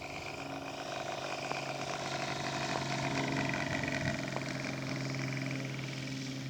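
Saito 270 glow engine of a one-third-scale radio-controlled Nieuport 17 model running steadily in flight low over the field, getting louder toward the middle and then easing off as it passes.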